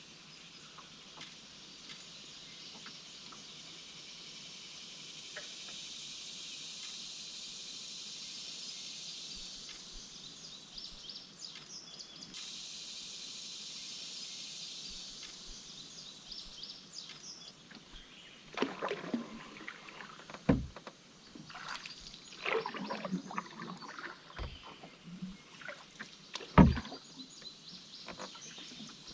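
Canoe on a river: a steady high hiss through the first half, then paddle splashes and water sounds with three sharp knocks, the loudest near the end.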